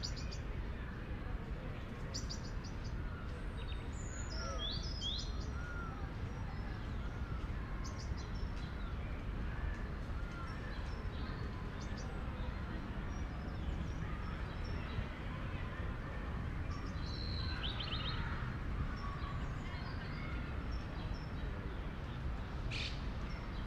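Small birds chirping and calling: many short, high chirps, and a short arched note repeated at a steady pace for several seconds. Under them runs a steady low rumble of city background noise.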